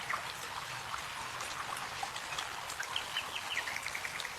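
Steady trickling, pattering water with scattered small drips. About three seconds in, a short run of quick chirps steps down in pitch.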